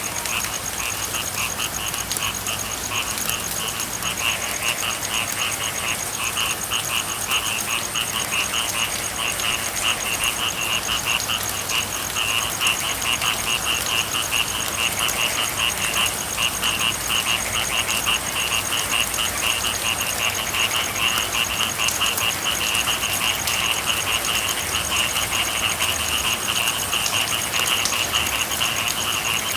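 A chorus of frogs calling in fast, continuous pulsing trills over the steady hiss of rain.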